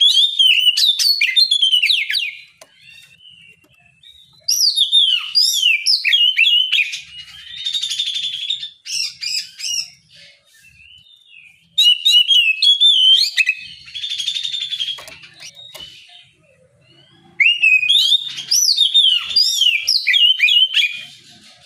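Oriental magpie-robin (kacer) singing its loud, open full song in four bouts of rapid, varied whistled phrases, with quieter twittering between them.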